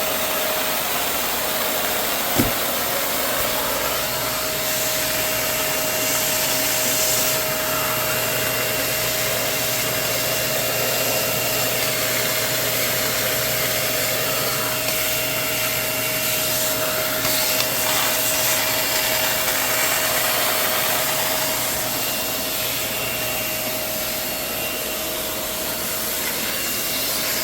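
Vacuum cleaner running steadily, a constant whine over its rushing air noise, with a single knock about two seconds in.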